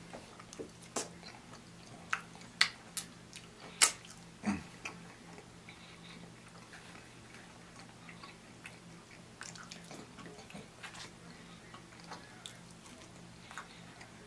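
Close-miked chewing and mouth sounds of a person eating loaded fries. There are sharp clicks in the first few seconds, then softer chewing, over a faint steady hum.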